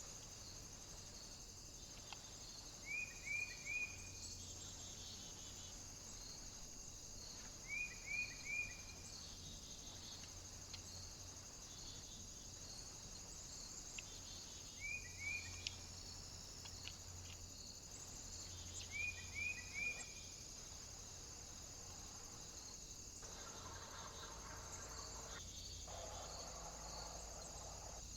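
A bird calling in short bursts of three quick notes, repeated about every four to five seconds, over a steady high-pitched hiss.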